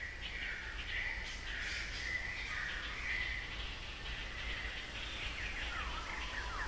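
Forest ambience with birds calling: a run of short, wavering calls at one high pitch, and a couple of falling whistles near the end.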